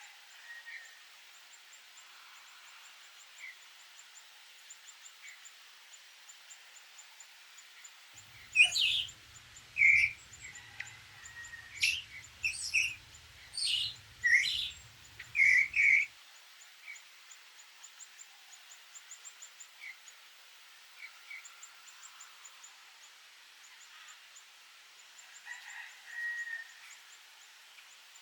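Birdsong: a bird gives a run of loud, sharp chirps for several seconds in the middle, with fainter chirps from other birds scattered around it. A faint, rapid high ticking runs underneath throughout.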